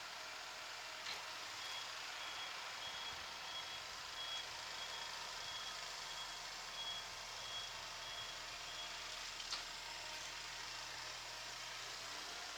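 Tractor's reversing buzzer, a Mitsuba Sankowa RH-10, beeping a single high note about twice a second for around seven seconds over a steady cab hiss. A sharp click comes just before the beeping starts and a louder one just after it stops.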